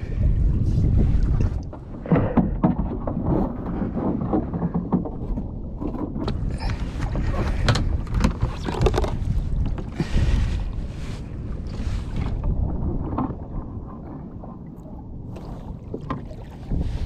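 Water sloshing and splashing around a fishing kayak, with wind buffeting the microphone and scattered knocks on the hull and gear.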